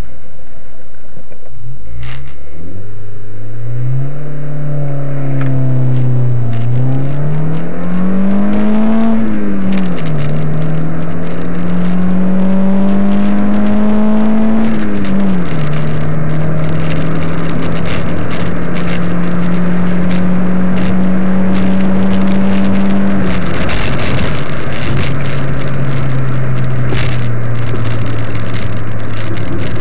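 Honda Civic's D14A4 1.4-litre four-cylinder engine, breathing through a Nipparts air filter in the stock airbox, heard from inside the cabin during a full-throttle run from a standstill. The engine note climbs toward about 7,000 rpm and drops at three upshifts about 6, 10 and 15 seconds in, then climbs slowly in the next gear. About 23 seconds in the throttle is lifted and the note falls away as the car slows.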